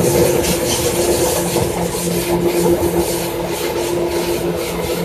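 Running sound of a Seibu 2000 series electric train heard from on board: a continuous rumble with a steady hum and a lower tone that pulses, easing slightly in loudness.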